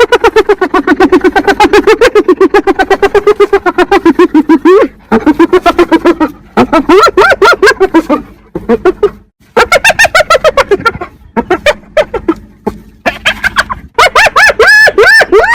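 Spotted hyena giggling: long runs of rapid, pitched cackling notes, several a second, broken by short pauses. Later runs rise higher in pitch, each note arching up and down.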